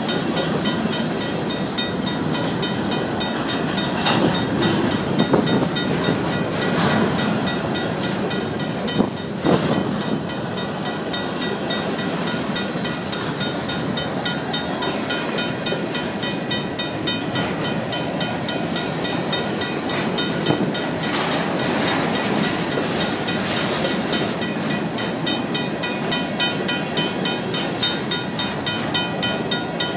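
Loaded Union Pacific covered hopper cars rolling past, with the steady rolling noise of the wheels on the rails and a few sharp knocks. Over it, the grade crossing's RACO mechanical bell rings steadily.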